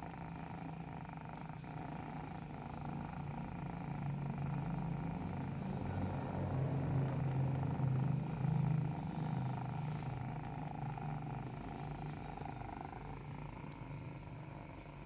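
Nursing kitten purring continuously, a low rapid rumble that swells to its loudest about midway and eases off toward the end.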